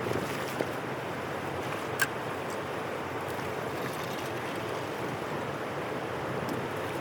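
Steady rush of flowing water, with one sharp tick about two seconds in.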